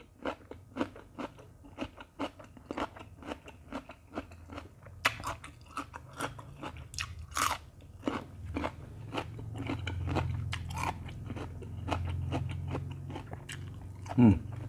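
A person chewing crisp raw cucumber close to the microphone: a rapid, irregular run of sharp crunches, with a low hum building under them from about halfway through.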